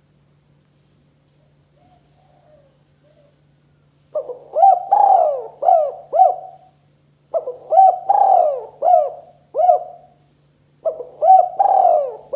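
Spotted dove (tekukur) cooing: three phrases of several arching coos each, the first starting about four seconds in, the next two about every three and a half seconds, with a few faint soft coos before them. A faint low hum runs underneath.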